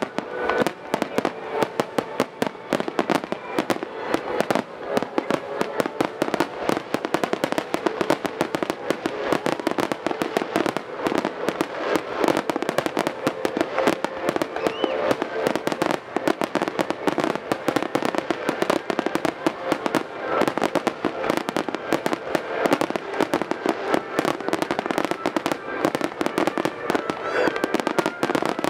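A rapid, continuous barrage of aerial firework shells bursting, with many reports a second running together with crackle.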